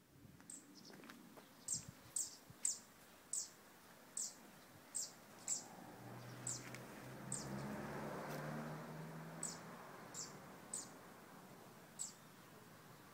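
A small bird chirping over and over: short, high, downward-slurred chirps, roughly one every half second to a second, with a short lull in the middle. A faint low hum rises and fades behind them around the middle.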